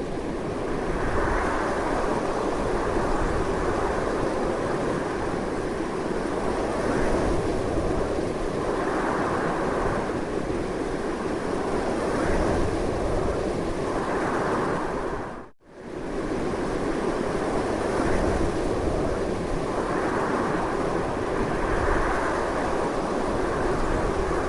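Strong wind blowing continuously, a steady rush that swells in gusts every couple of seconds. The sound drops out for a split second about two-thirds of the way through, then returns at full strength.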